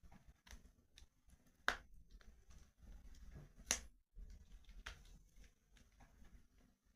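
Wood fire crackling quietly: scattered small pops and snaps, with two sharper pops about two seconds apart, over a faint low rumble.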